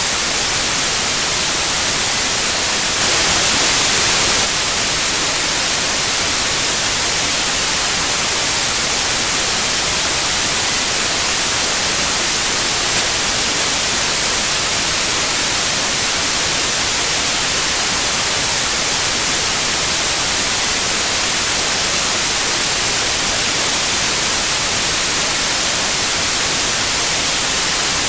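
Synthetic white noise hissing steadily with a constant high-pitched pure tone at 9645 Hz laid over it, a tinnitus-therapy sound tuned to the tinnitus pitch.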